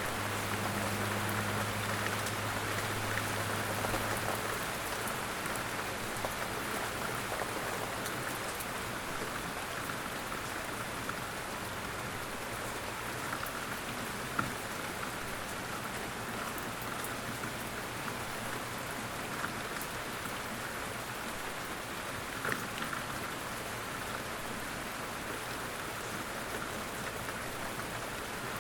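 Steady light rain pattering down, with a few louder single drips about 14 and 22 seconds in. A faint low hum sits under the rain for the first few seconds.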